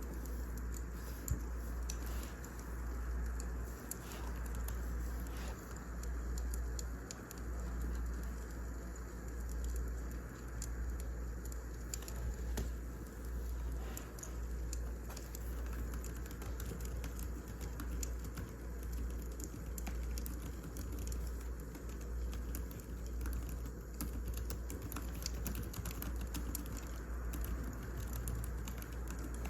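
Wood fire burning: a steady low rumble with many scattered small crackles and pops.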